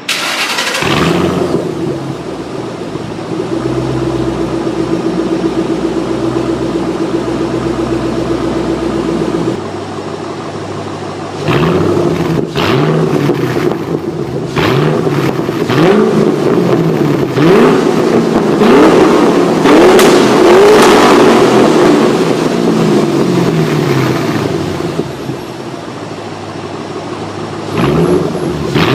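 2007 Ford Mustang GT's 4.6-litre V8 through a Borla ATAK cat-back exhaust on stock manifolds and H-pipe, firing up warm and running at a steady high idle that drops back after about nine seconds. From about twelve seconds in it is blipped again and again, the revs climbing and falling in quick succession, then settles before one more rev near the end.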